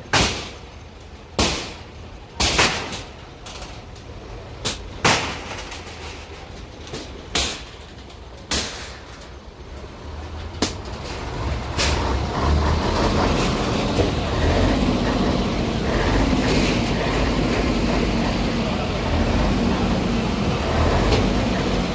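A string of sharp knocks or blows at uneven intervals, roughly one every second or so. About halfway through a heavy engine takes over, running as a steady, louder rumble.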